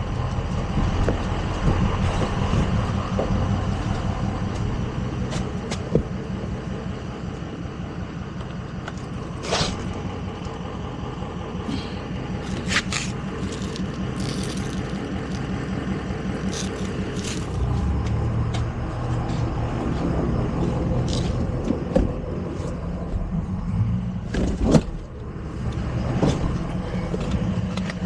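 A truck engine running steadily, with scattered sharp metallic clanks and scrapes.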